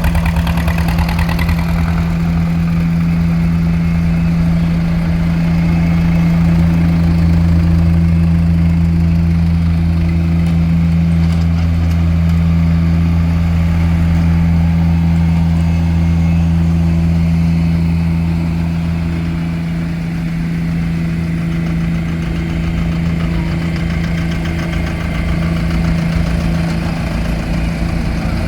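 Tractor engine running steadily at low speed, a deep even hum, easing slightly about two-thirds of the way through.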